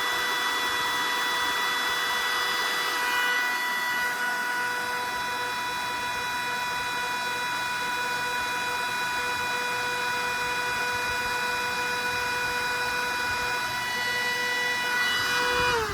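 Bissell CleanView vacuum motor running at speed with a steady whine. Near the end it is switched off and winds down, falling in pitch. The owner can't tell why the motor sounds as it does and suspects something inside the fan.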